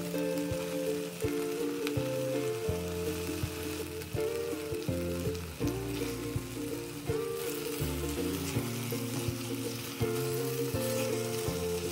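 Chicken pieces and onion sizzling in a hot pot while a spatula turns them, with small scrapes and knocks of the spatula against the pot. Background music with a steady melody and bass plays over it.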